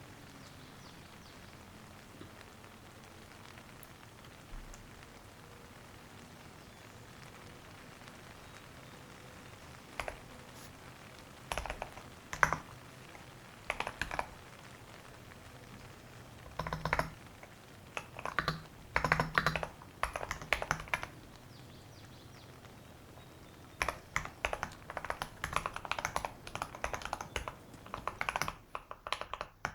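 Typing on a computer keyboard in short bursts of quick key clicks, with pauses between them. The first third is only faint hiss before the typing starts.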